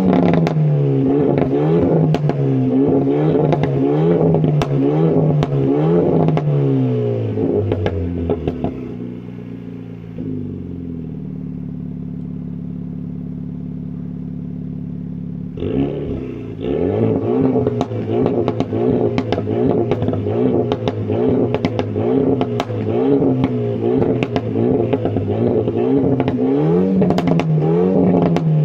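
Renault Megane R.S. Trophy's turbocharged four-cylinder engine revved over and over, its pitch climbing and falling about once a second, with crackles from the exhaust. About a third of the way in it settles to a steady idle for some five seconds, then the revving starts again.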